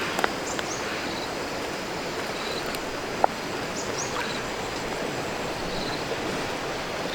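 Steady running, lapping water, with one sharp knock about three seconds in and a few faint short high chirps.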